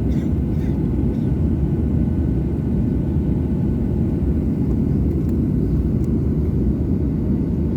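Steady low rumble of an airliner's jet engines.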